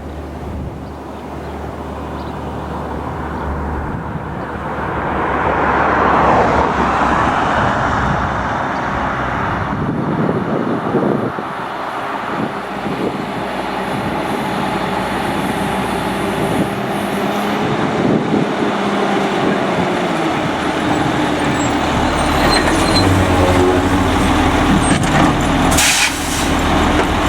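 Autocar front-load garbage truck's diesel engine running, growing louder a few seconds in, its pitch rising and then falling partway through. A short air hiss comes near the end.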